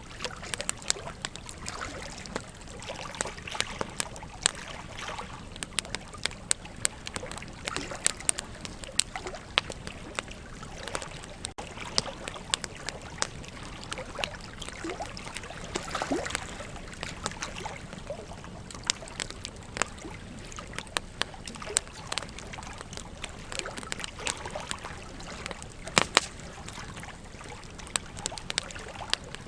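Wood fire crackling with frequent sharp pops, over the steady rush of flowing river water.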